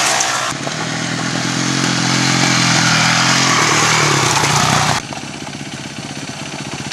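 Dirt bike engines running, the pitch rising and then falling off. About five seconds in the sound drops suddenly to a quieter, steady engine putter.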